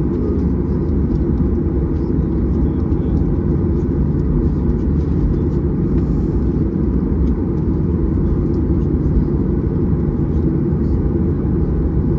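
Steady low rumble inside the cabin of a Boeing 737-800 taxiing after landing, its CFM56-7B engines at idle, with a few faint steady tones above the rumble.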